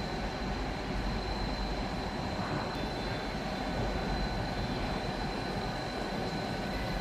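Passenger train running at a station platform: a steady rumble and rush with a thin, steady high whine over it.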